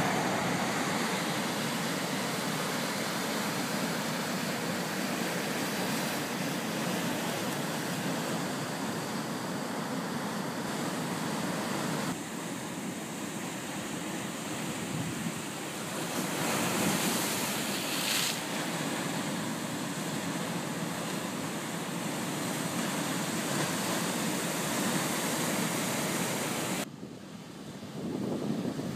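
Ocean surf washing and breaking, with wind buffeting the microphone. The noise steps down abruptly about twelve seconds in and again near the end.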